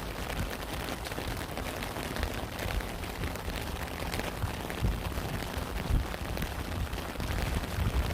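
Steady rain falling at a campsite: an even patter, with frequent soft low thuds of heavier drops landing close by.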